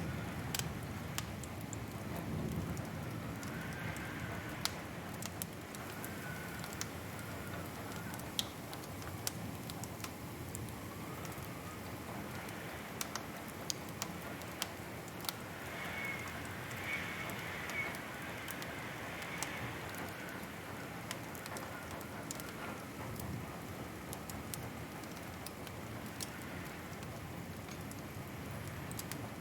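Wood fire burning in a fireplace: a steady low rushing of the flames with irregular sharp crackles and pops from the logs.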